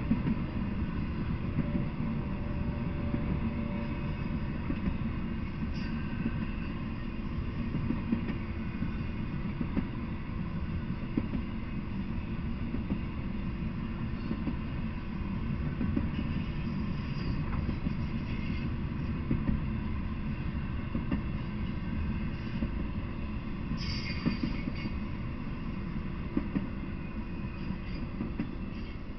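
Intermodal freight train cars rolling past: a steady low rumble with scattered sharp clacks from the wheels. A brief high wheel squeal comes about three quarters of the way through, and the noise eases a little as the last car clears near the end.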